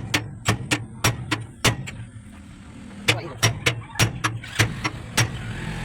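Repeated sharp metal knocks of a hammer striking, often several a second with a pause of about a second in the middle, over a low steady hum.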